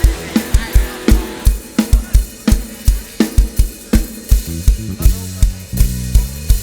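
A live band's drum kit plays a steady beat without vocals: a bass drum kick about every third of a second with snare and hi-hat strokes, and a drum fill near the end.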